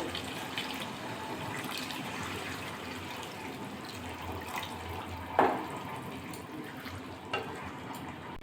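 Water being poured into a pan of sautéed chicken: a steady pour, with two sharp knocks about five and seven seconds in.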